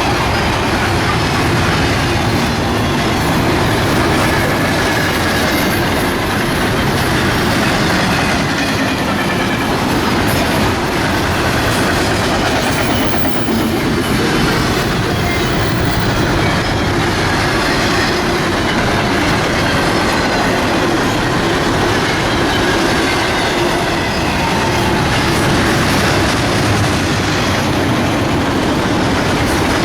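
Freight train cars rolling steadily past at close range, a loud, unbroken noise of wheels on rail, with a faint wheel squeal coming and going.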